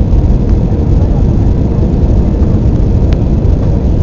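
Loud, steady low rumble of an Airbus A320's engines and rushing air, heard from inside the passenger cabin, with a faint steady hum and a single sharp click about three seconds in.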